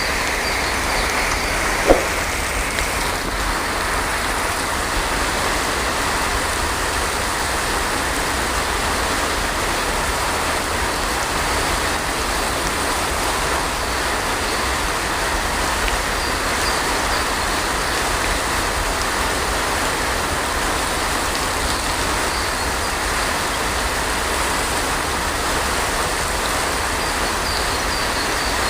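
Heavy rain falling steadily, an even hiss. There is one short, sharp sound about two seconds in.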